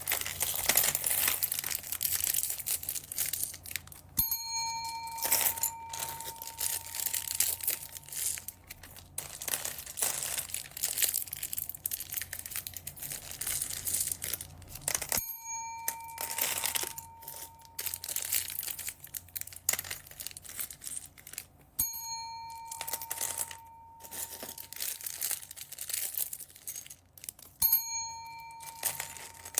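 Plastic bead bags crinkling and rustling as they are handled and opened. A short bell-like ding chimes four times, about 4, 15, 22 and 28 seconds in, each fading over about a second.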